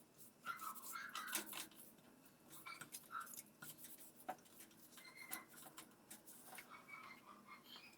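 Faint clicks, scrapes and brief squeaks of hands working on washing-machine parts, in irregular strokes throughout.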